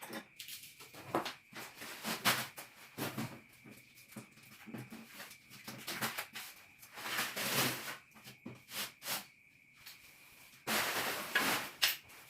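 Packaging being torn and pulled off a boxed standing mirror: a run of irregular rustling, scraping bursts, two of them longer, a little past the middle and near the end.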